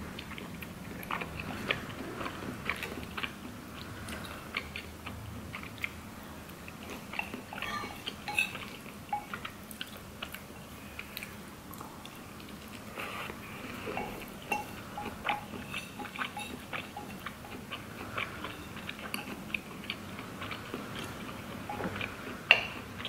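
Close-up eating sounds: a person chewing spicy ramen noodles and rice cakes, with chopsticks and a metal spoon clicking and scraping against the bowl. The sharpest click comes near the end.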